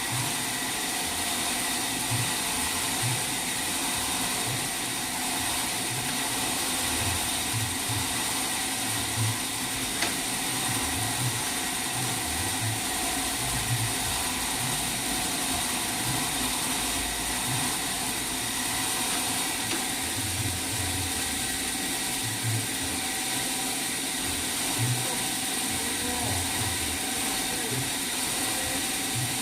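Sawmill machinery running steadily, with a constant whine and irregular low knocks.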